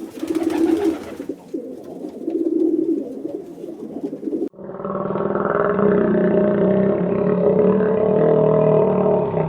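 A pigeon cooing in repeated low phrases, about one a second. About halfway through it cuts off abruptly to a louder, steady animal call with several pitches layered together.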